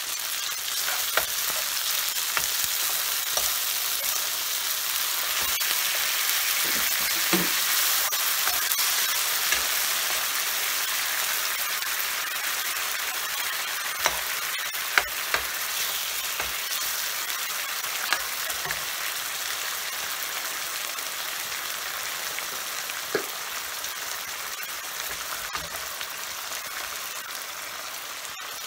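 Minced beef and red onion sizzling in a nonstick frying pan, stirred with a metal spoon that clicks and scrapes against the pan now and then. The sizzle slowly eases off toward the end.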